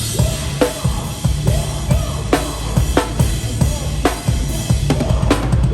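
A drum kit played hard in a live hardcore band, heard close from behind the kit: kick drum, sharp snare hits every second or so and cymbal wash over the band's heavy low end.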